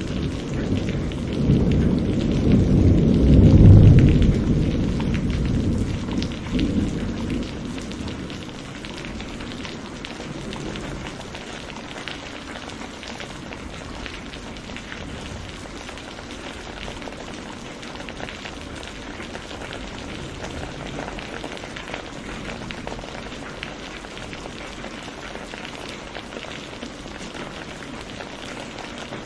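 A roll of thunder rumbling over heavy rain, swelling to its loudest a few seconds in and then dying away, leaving steady rain pattering and hissing.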